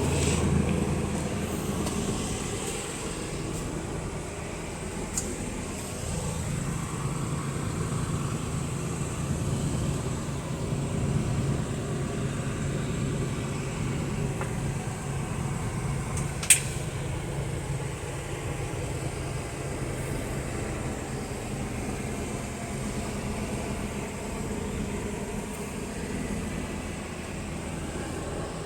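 A Blue Bird school bus's 8.3-litre Cummins inline-six diesel running steadily, with a single sharp click about halfway through.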